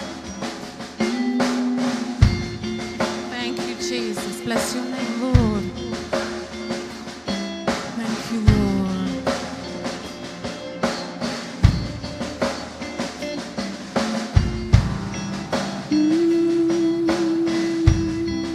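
Gospel band playing an instrumental passage: drum kit with regular snare and kick hits over bass and held sustained notes that change every couple of seconds.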